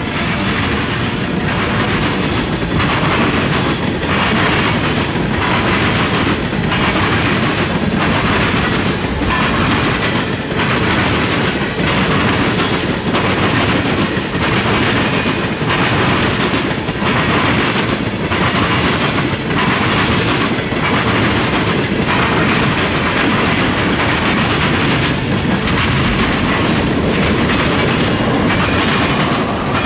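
Freight train of tank cars rolling past close by: steady rumble of steel wheels on rail, with a regular clack roughly once a second as the wheelsets cross rail joints.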